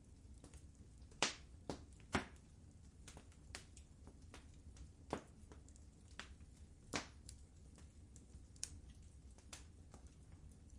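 Wood fire crackling in a fireplace: irregular sharp pops and snaps over a low steady hiss of the flames, with the loudest pops about a second in, near two seconds, around five seconds and around seven seconds.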